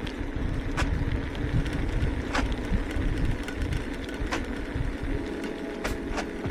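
Wind buffeting the microphone and tyre rumble from a bicycle being ridden on a road, with a sharp click every couple of seconds.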